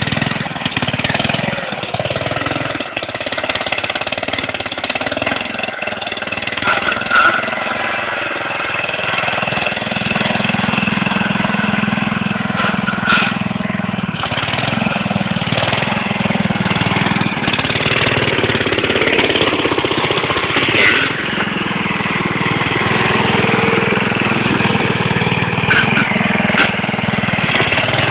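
Tractor engine running at steady, loud throttle, its note easing off and picking back up a few times as it is driven.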